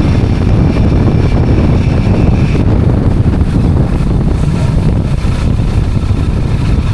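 Steady, loud wind rushing over the microphone while riding a motorbike, with the engine running underneath.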